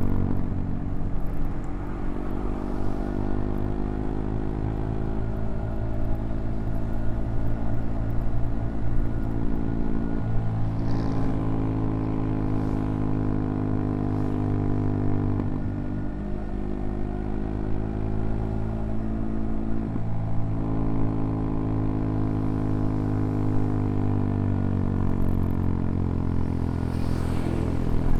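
CFMoto Papio XO-1's small single-cylinder engine running under way, its note rising and falling with the throttle. There are three brief dips in the engine note, about a third, a half and two-thirds of the way through.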